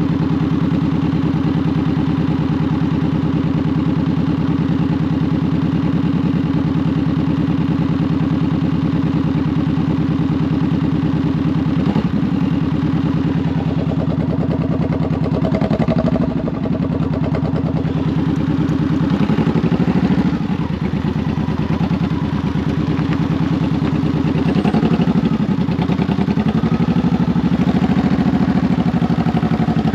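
Honda VTX 1800's big V-twin engine idling steadily, then pulling away gently several times, with short rises and falls in pitch, in slow stop-and-go riding.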